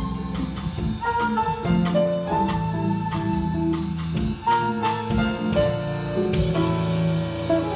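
Live jazz-pop band playing instrumentally: drum kit keeping a steady cymbal beat under bass, piano and a sustained melody line. About six seconds in the steady beat stops and a cymbal rings on under held chords.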